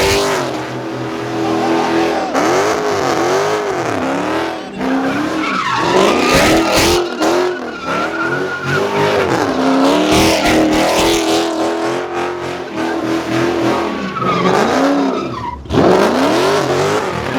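A car spinning its tyres in a burnout, its engine revving up and down over and over while the tyres squeal and skid. The revs dip briefly about five seconds in and again near the end.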